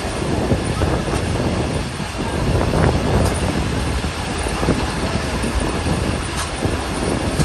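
Passenger train running on the rails: steady rumble and rushing noise of the wheels and carriages, with a couple of brief sharp clicks.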